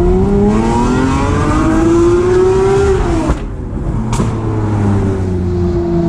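Sports car engine accelerating hard, rising in pitch for about three seconds, then dropping sharply at a gear change, with a single sharp crack just after. The engine then runs on at lower revs.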